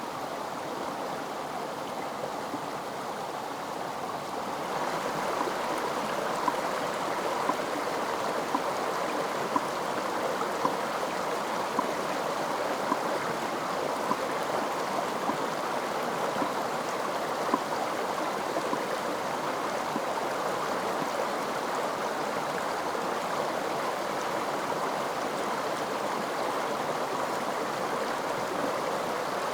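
Running water of a forest stream, a steady rushing and gurgling that gets louder about four and a half seconds in, with faint light clicks roughly once a second over it.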